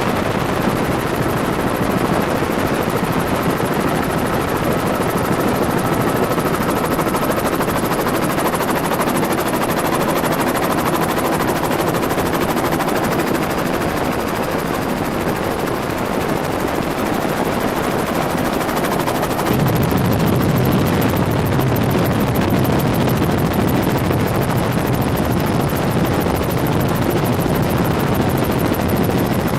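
Helicopter rotor and engine running steadily, heard on board as a dense, loud drone. About twenty seconds in, the deep low end grows stronger and the sound gets a little louder.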